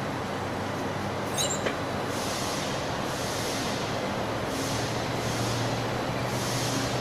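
Steady industrial machinery noise from a running glass tempering furnace line: a continuous hum with a high hiss that swells and fades about once a second, and a brief high squeak about a second and a half in.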